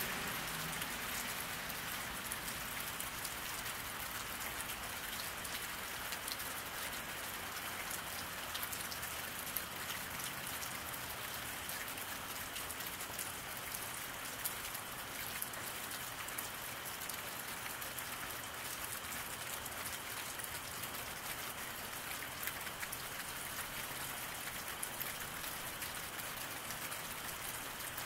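Steady rain falling on a wet paved road, a constant patter with single drops and splashes clicking out now and then.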